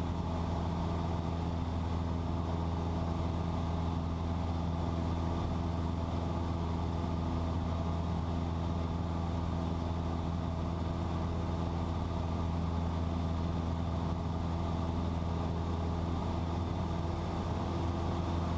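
Cessna 172's piston engine and propeller droning steadily in cruise flight: an even hum with several steady overtones.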